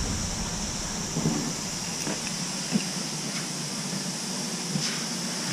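Steady work-site background noise: an even hiss with a low rumble that fades out about a second in, and a few light clicks and knocks later on.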